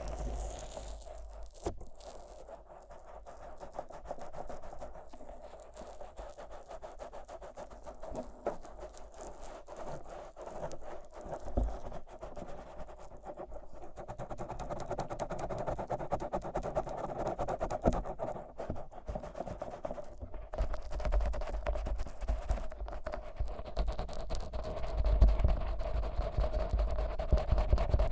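Fingers rubbing thick Vaseline over the outer ears of a 3Dio binaural microphone: a dense, sticky rubbing and scratching close in the ears. It grows louder in the second half, with low thuds as the ears are pressed.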